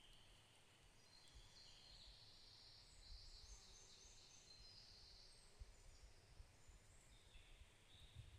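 Faint, high-pitched birdsong: a run of thin chirping notes that is loudest in the middle and fades out, with a second brief call near the end, over a low rumble.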